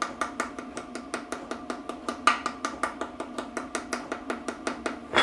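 Ratchet clicking rapidly and evenly, about six or seven clicks a second with a few louder ones, as it turns the bolt of a bearing puller to draw a gearbox bearing into its housing.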